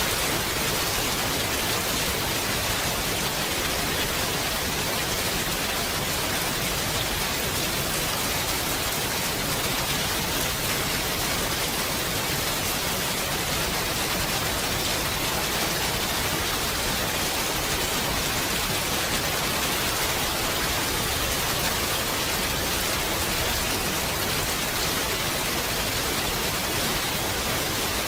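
Steady, even rainfall, a continuous hiss of rain with no distinct drops or thunder.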